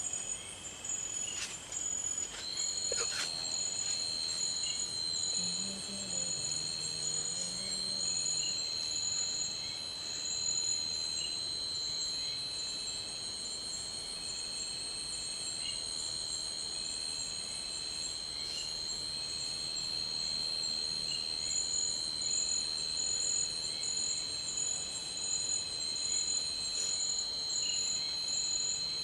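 Night chorus of crickets and other insects: several steady high-pitched trills at once, one pulsing rapidly, with a second steady shrill tone joining about two seconds in. A few faint clicks come early on.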